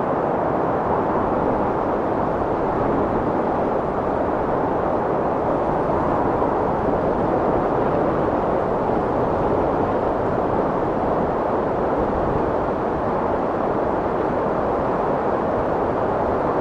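Strong wind blowing steadily: an unbroken rushing noise with little high hiss, holding an even level without gusts or lulls.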